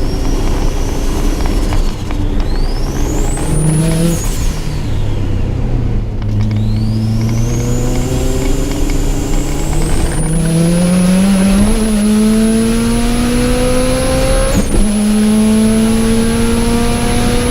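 Subaru Impreza GC8's flat-four engine under hard acceleration on track, its pitch climbing through the gears. It drops at upshifts about two and six seconds in, then pulls in one long rise with a brief break near the end. A high whine rises with the revs and then holds steady.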